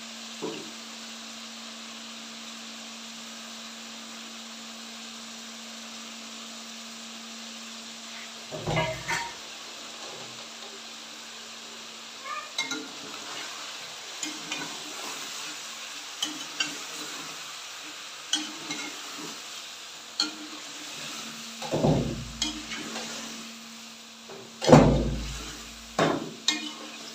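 Chicken and chopped tomatoes sizzling steadily in an aluminium pot. From about eight seconds in, a metal spoon stirs and scrapes against the pot with light clinks, and there are three heavy thumps, the loudest near the end.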